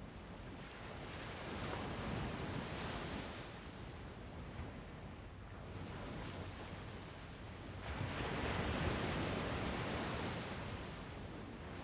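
Strong wind gusting across the microphone: a rushing noise that swells about two seconds in, eases, then rises again to its loudest around eight seconds in before dropping back.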